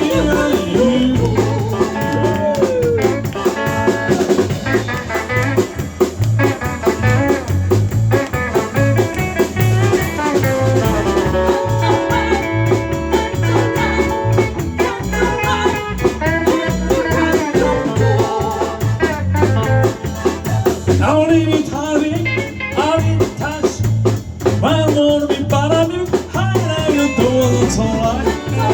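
Live band music with a steady drum beat, bass and guitar playing through, with a voice singing at times.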